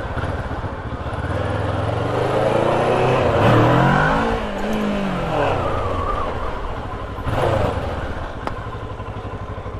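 Motorcycle engine running on the road, rising in pitch as it accelerates about two seconds in and falling away again by the middle; a short noisy burst comes near the end.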